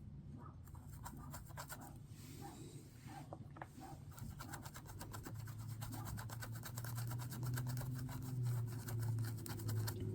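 Brush scratching and rubbing pigment into a lizard-shaped mold in a rapid run of fine strokes. A low hum grows louder partway through.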